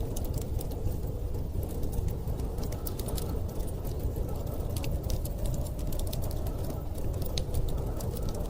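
Wood fire crackling, with irregular sharp pops and snaps, over a steady low rush of storm wind.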